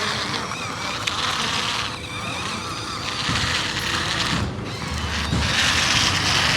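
Small electric motor of a toy RC tractor running, with a noisy rattling hiss, getting louder after about five seconds.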